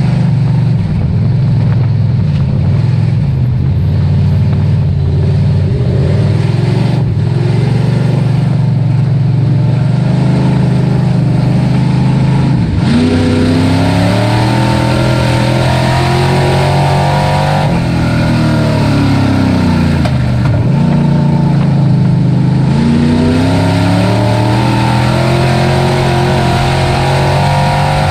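Dirt-track race truck engine running hard at steady revs. About halfway through, and again about two-thirds through, the revs drop sharply and then climb back up.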